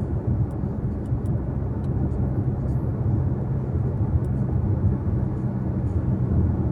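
Steady low rumble of a car driving along, heard inside the cabin: tyre and road noise with an even engine hum.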